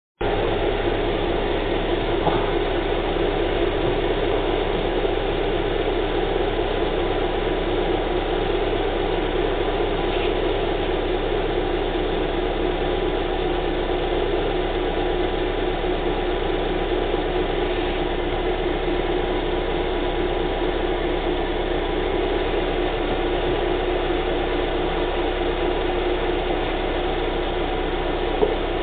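2012 Subaru Outback's 2.5-litre flat-four engine idling steadily in park, its CVT warming for a fluid level check.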